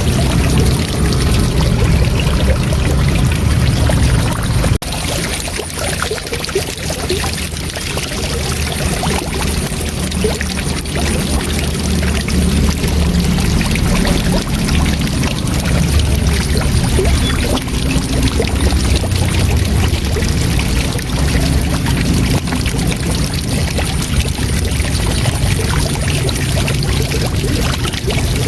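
Waterfall: a steady, heavy rush of falling water, with a sudden slight drop in level about five seconds in that builds back over the next few seconds.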